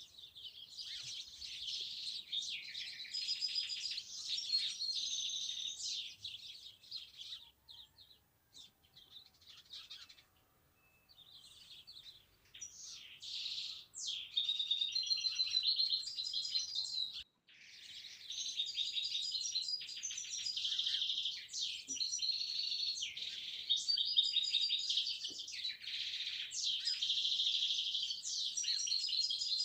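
Many small songbirds chirping and trilling at once in quick, overlapping high-pitched calls. The chorus thins out for a few seconds about a third of the way in, then picks up again.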